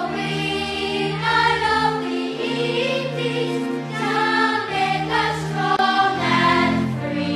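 Music with a choir of voices singing over sustained low notes.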